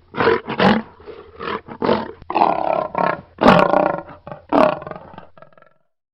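Lion roaring: a series of short calls that build to longer, louder roars in the middle, then trail off into fading grunts.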